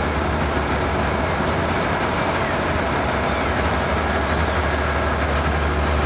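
Steady low rumble and noise of a vehicle in motion or traffic, even throughout.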